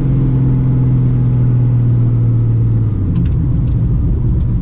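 Nissan Skyline R32 GT-R's RB26 straight-six, fitted with a big single BorgWarner turbo in place of the factory twin turbos, running under way, heard from inside the cabin. The engine note holds steady, then changes and turns rougher about three seconds in, with a few faint clicks.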